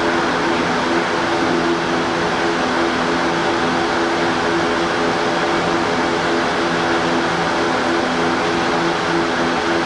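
Steady drone of railway train machinery: a low hum with a few steady tones over an even hiss, unchanging in level and pitch.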